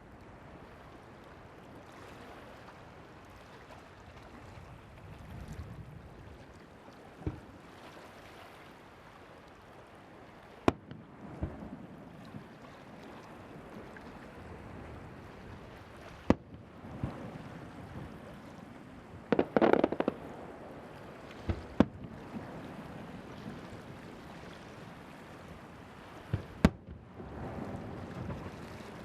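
Fireworks shells bursting over the sea, heard as single sharp bangs every few seconds, with a quick run of crackling reports about two-thirds of the way through. A steady rush of wind or surf runs underneath.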